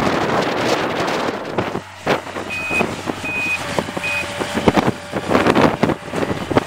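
A truck's backup alarm beeping three times while the truck reverses, over a low engine hum, after a stretch of wind buffeting the microphone in a blizzard.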